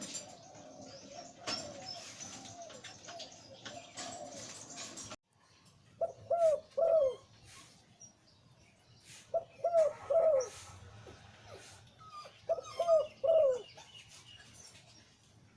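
Male zebra dove cooing: faint coos under hiss in the first few seconds, cut off suddenly, then three loud phrases of three or four falling, bubbling coo notes, one about every three seconds.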